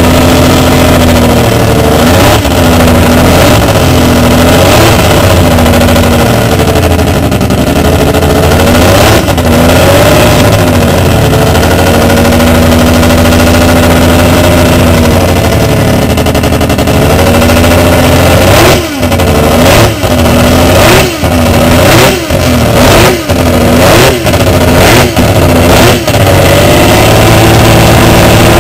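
Mazda rotary racing engine of a 1985 Fuji GC-spec MCS race car revving while stationary, very loud. The pitch rises and falls with the throttle. From about two-thirds through comes a quick series of about eight sharp throttle blips, each with a brief abrupt drop. It then holds a steady high idle.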